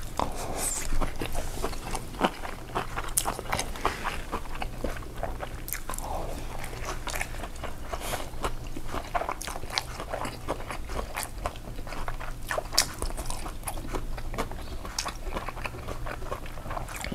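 Close-miked eating sounds: chewing, biting and crunching food, with frequent sharp wet clicks and smacks, over a steady low hum.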